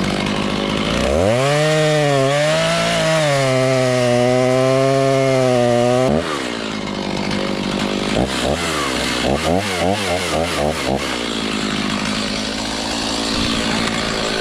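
Two-stroke chainsaw held at full throttle for about five seconds, then dropping back. Around the middle it is revved in a series of quick blips, then runs on steadily.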